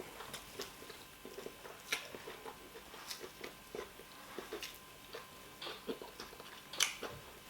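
Close-up eating sounds: chewing fufu with oha soup, with wet mouth smacks and clicks at an uneven pace, a few of them sharper and louder, one near the end.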